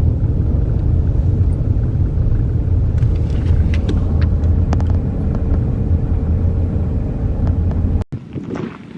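Truck camper on the road: a steady, loud low rumble of engine and road noise that cuts off abruptly about eight seconds in.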